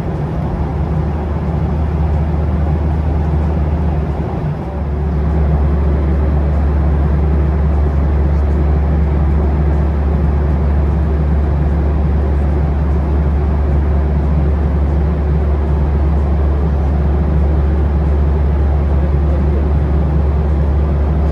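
Steady jet engine and airflow noise inside an airliner cabin in flight, a deep hum under an even rush. It gets a little louder about four seconds in.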